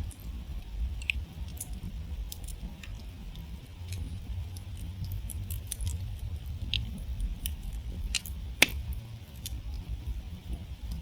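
Wood campfire crackling: scattered sharp pops and snaps of burning wood over a low, steady rumble, with one louder pop past two-thirds of the way through.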